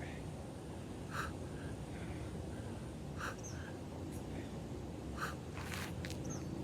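A person breathing hard after exertion, roughly one breath every two seconds, over steady outdoor background noise, with a faint bird chirp now and then.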